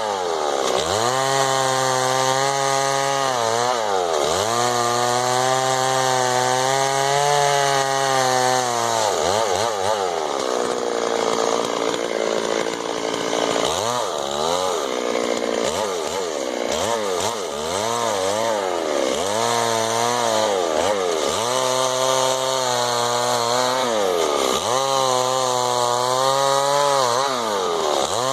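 Two-stroke chainsaw running at high revs while cutting wood. The engine pitch sags and climbs back again and again as the chain bites into the timber under load.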